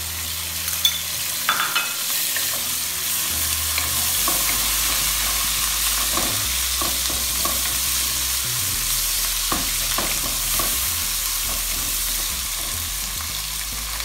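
Onions, cumin and freshly added ginger-garlic paste sizzling in hot oil in a metal pan while being stirred with a wooden spoon, which knocks against the pan a few times. The sizzle grows a little louder about four seconds in.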